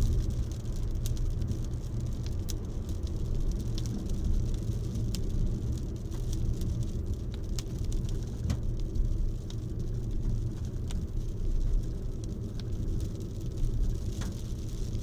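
Rain falling, with scattered drops ticking sharply on a hard surface over a steady low rumble.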